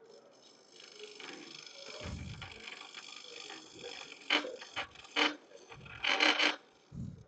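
Hunter carbide hollowing tool cutting inside a spinning wooden vase on a lathe: a steady rasping scrape, with a few louder, sharper scraping bursts in the second half.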